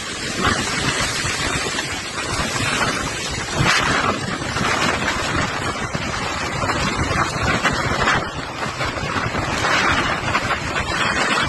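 Strong tornado winds blowing hard across the microphone, rising and falling in gusts.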